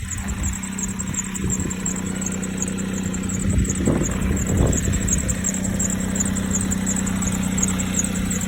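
2007 Jeep Compass's 2.4-litre dual VVT four-cylinder engine idling steadily, with a high squeak from the accessory drive belt repeating a few times a second: the belt is squeaky.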